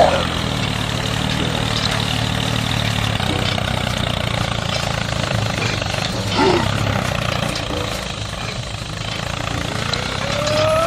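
An engine running steadily with a low hum, easing off slightly near the end.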